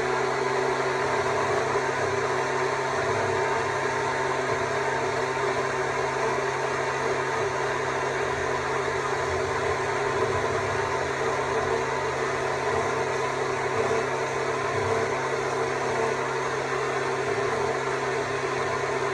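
Stihl MSA 200 C battery chainsaw running steadily while cutting into wood.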